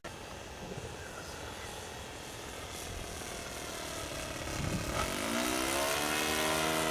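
ASP .61 two-stroke glow engine of an RC Cessna 182 in flight, faint at first under a hiss of wind noise, then throttled up about five seconds in: the pitch rises quickly and holds steady, louder.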